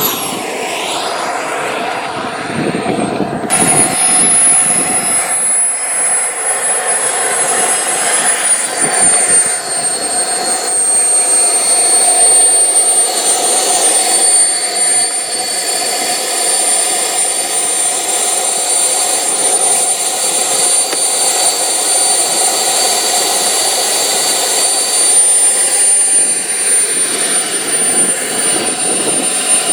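Airworld Cougar RC model jet flying, its engine whining steadily and high. Near the start the sound sweeps down and back up as the jet passes, and about eight seconds in the whine drops a small step in pitch.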